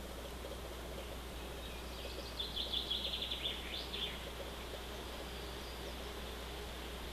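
A small songbird sings one short phrase of rapid high repeated notes, ending in a quick rising note, about two seconds in. Steady outdoor background hiss and a low hum run underneath.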